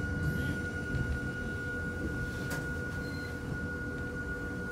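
Hakone Tozan Railway train running, heard from inside the carriage: a steady low rumble with a thin, steady high tone over it, and a single sharp click about two and a half seconds in.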